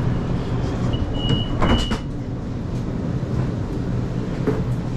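Sydney suburban train's sliding doors closing: a high warning tone sounds twice, then the doors knock shut about two seconds in, over the steady low hum of the stationary train.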